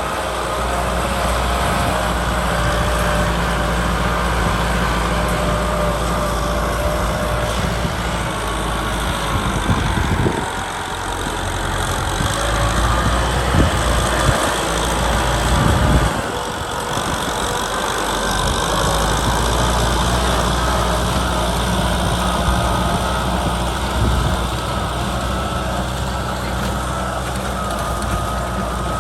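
Kubota tractor's diesel engine running steadily while plowing, its note shifting briefly about ten and sixteen seconds in.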